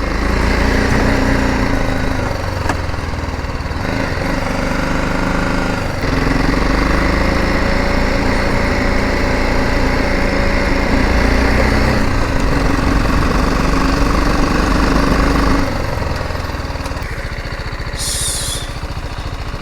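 Motorcycle engine running while riding, its note shifting with throttle and gear changes several times, then easing off and quieter about sixteen seconds in.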